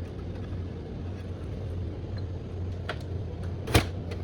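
A few light clicks, then one sharper knock near the end, as computer parts and cables are handled while the optical drive is connected, over a steady low hum.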